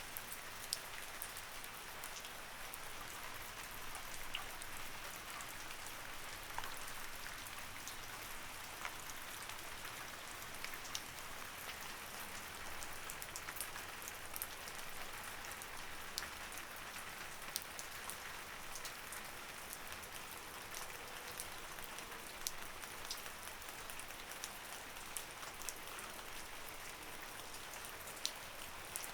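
Light rain falling steadily, a soft even hiss with many separate drops pattering and ticking on a surface.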